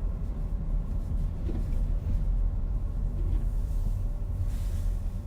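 Steady low rumble of a car being driven, heard from inside the cabin, with a faint steady hum over it.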